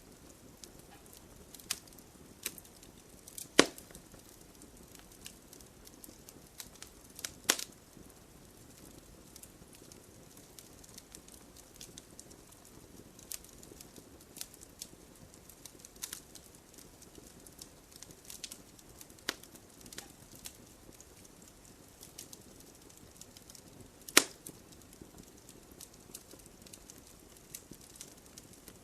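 Wood fire crackling: a soft steady hiss under irregular pops and snaps, three of them much louder, about 3.5 s in, near 7.5 s and about 24 s in.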